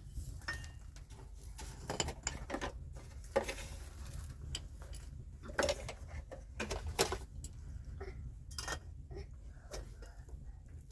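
Scattered light knocks and clinks, as of small objects being handled, over a steady low rumble.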